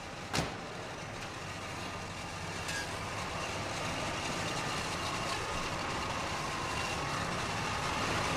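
A single sharp thump about half a second in, then a large sedan's engine running with a steady hum that slowly grows louder.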